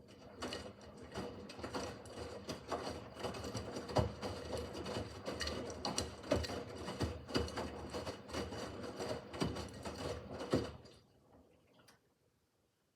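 Miele W5801 WPS front-loading washing machine on its easy-care 30 °C wash: the drum turns with a steady motor hum while the laundry tumbles with irregular knocks and clatter. The motor then stops about 11 seconds in, the pause between drum turns in the wash rhythm.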